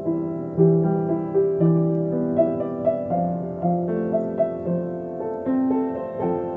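Solo piano playing a slow melody over held lower notes. The notes come about two to three a second, each struck and left to ring.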